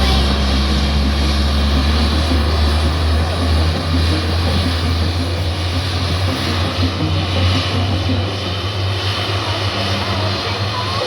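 A-10C Thunderbolt II in its demonstration, its twin TF34 turbofan engines heard loud and steady with a deep low rumble.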